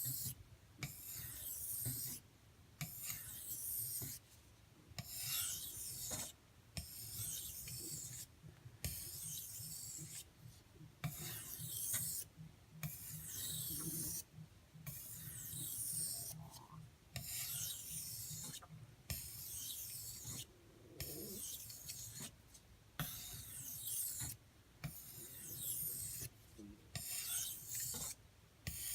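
A D2 steel knife blade being drawn across an Arkansas water stone in repeated sharpening strokes, a hissy scraping sound each time, about one stroke every two seconds with short pauses in between.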